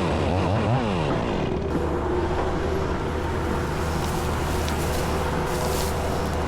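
An engine revving up and down rapidly several times, then settling into a steady, even run from about two seconds in.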